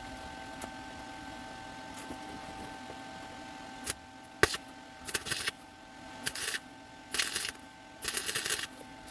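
Ratchet wrench clicking in short rattling bursts as it works a bolt, starting about four seconds in after a single sharp click, over a faint steady hum.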